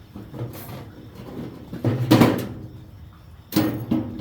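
Metal garbage can being opened and rummaged in: the lid and can scrape and clank a few times, loudest about two seconds in, with another pair of clanks near the end.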